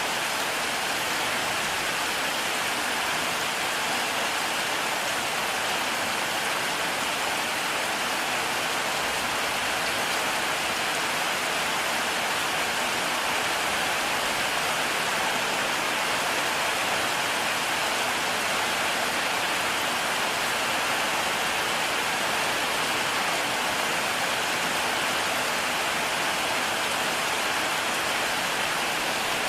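Heavy rain falling steadily, a dense even hiss of drops without let-up.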